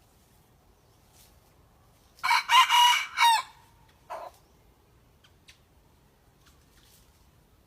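A red junglefowl rooster crows once, about two seconds in: a short crow of several linked notes lasting just over a second. A brief, lower single call follows.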